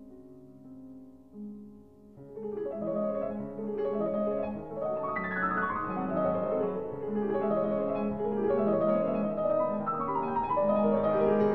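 Piano music: soft, slow held notes, then from about two seconds in a louder, busier passage with many notes.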